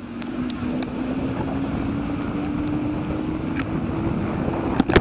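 Wind rushing over the microphone of a rider on a moving bicycle, with a steady low hum that slowly rises in pitch and scattered light clicks; a sharp click comes at the very end.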